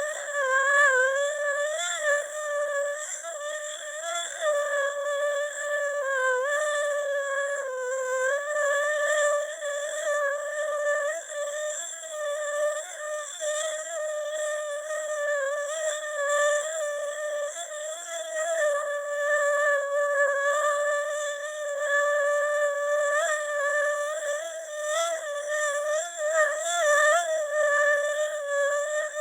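A synthetic AI voice holding one unbroken vowel-like sound, humming-like and slightly wavering in pitch, with no words.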